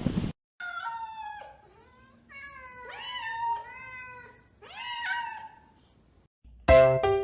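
A cat meowing: three drawn-out, wavering meows, the middle one the longest. Piano music starts near the end.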